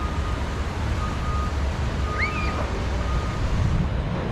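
Vehicle reversing alarm beeping about once a second as a steady high tone, over a steady low rumble of wind and surf. A brief rising-and-falling call comes in about two seconds in.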